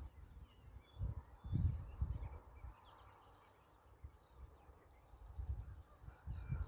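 Many small birds chirping and twittering at dawn, a busy scatter of short high calls throughout, with a few low rumbles or thuds on the microphone about a second in and again near the end.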